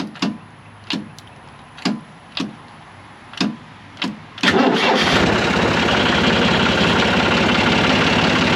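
John Deere 2155 starter solenoid clicking six times at the key, each a single sharp click without the starter turning, a symptom of the failing solenoid. About four and a half seconds in, the starter suddenly engages and cranks the engine with a loud, steady churn.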